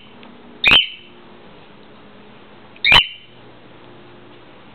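Cockatiel giving two loud, short calls about two seconds apart.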